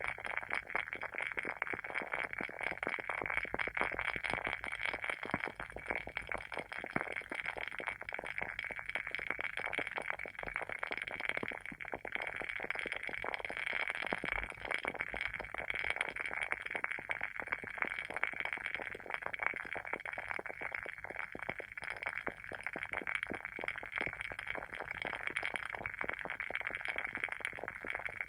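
WoodWick candle's wooden wick crackling steadily as it burns, with many small pops a second, like a tiny wood fire.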